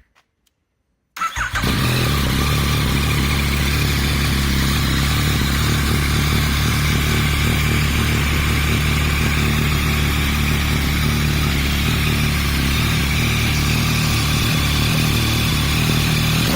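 Yamaha MT-09 inline-three started about a second in, catching at once after a brief crank, then idling steadily through a Roadsitalia Special Carbon exhaust with the catalytic converter in place and the dB killer removed.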